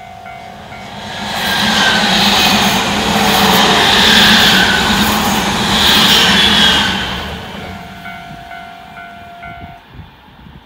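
Tobu 100 series Spacia limited express electric train passing close by at speed: the noise of wheels on rail builds over about a second, stays loud for about five seconds as the cars go by, then fades away.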